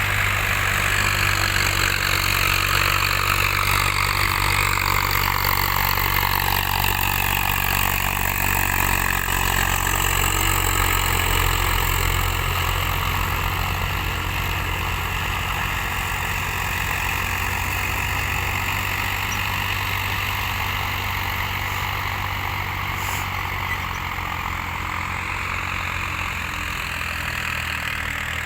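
Tractor diesel engine running steadily, with the engine note and level easing slightly about halfway.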